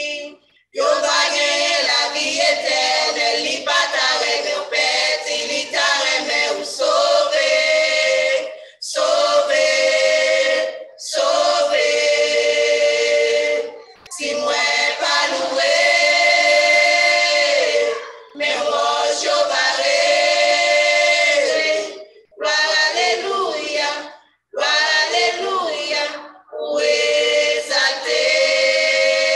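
Gospel choir of women's and men's voices singing a hymn a cappella, in phrases of long held notes broken by short pauses for breath.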